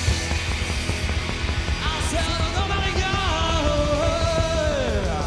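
Rockabilly band playing loud rock and roll with drums and bass. About two seconds in, a long held high note with overtones comes in, wavers, and slides steeply down in pitch near the end.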